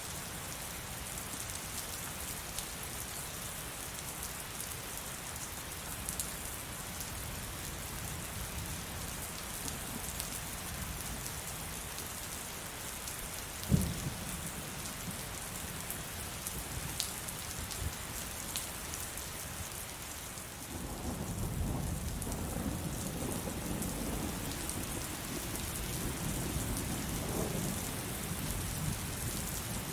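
Heavy rain falling steadily. A single sharp low thump comes about halfway through, and a long low rumble of rolling thunder starts about two-thirds of the way in.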